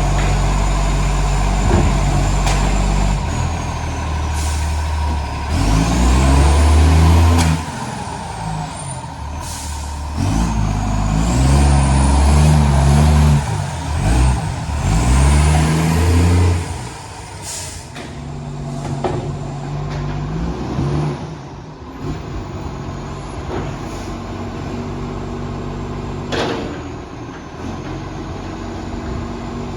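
Garbage truck's diesel engine with a massive exhaust leak, revving up hard several times in the first half with rising whines over it, then settling to a lower idle. A few sharp hisses cut through, typical of air brakes.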